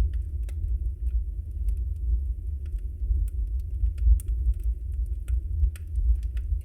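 Wood fire burning in a fireplace: a steady low rumble of the flames with sharp, irregular crackles and pops from the burning logs, several a second.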